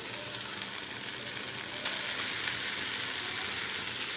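Boiled rice and vegetables sizzling steadily in a hot non-stick frying pan while being stir-fried, with a few light ticks from the stirring.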